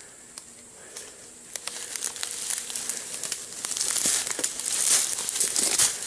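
Footsteps crunching through dry leaves and undergrowth, with twigs crackling; quieter at first, picking up about a second and a half in and getting louder near the end.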